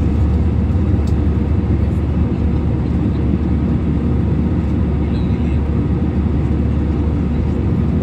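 Steady low drone of an airliner's engines and airflow, heard inside the passenger cabin.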